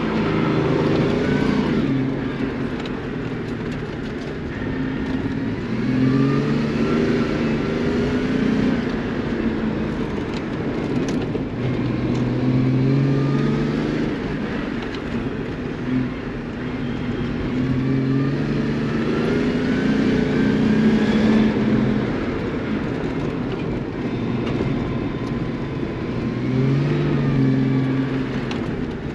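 Car engine on an autocross run, revving up and easing off again and again as it accelerates out of corners and lifts for the next.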